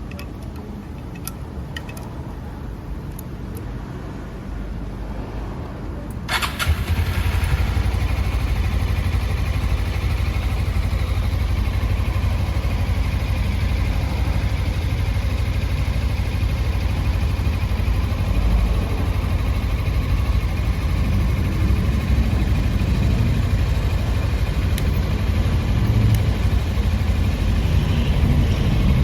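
Suzuki V-Strom 250's parallel-twin engine being started: a few light clicks, then about six seconds in the starter cranks and the engine catches at once. It then settles into a steady idle.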